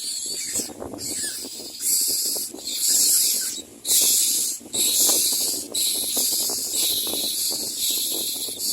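Myna nestling giving begging calls: harsh hissing rasps, each about half a second long, repeated roughly once a second.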